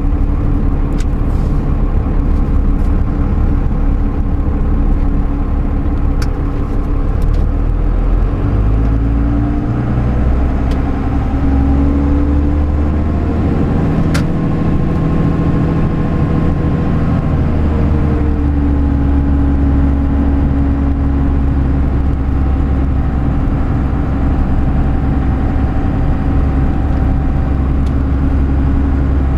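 Pickup truck with a camper driving slowly, its engine running steadily. Between about a third and two thirds of the way through, the engine pitch rises and falls back as the truck speeds up and slows again.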